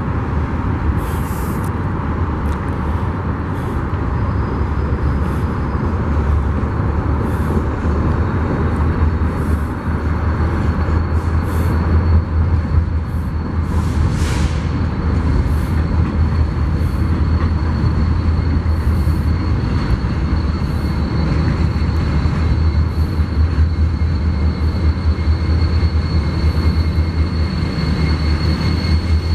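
Union Pacific freight train rolling past with a steady low rumble, broken by short high clicks. A thin, high squeal grows louder near the end.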